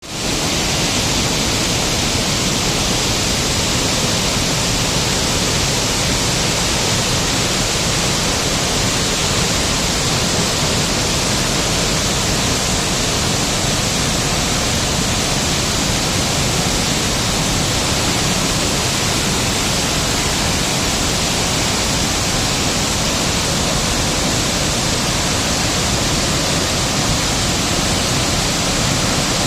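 Waterfall: falling water in a steady, unbroken rush.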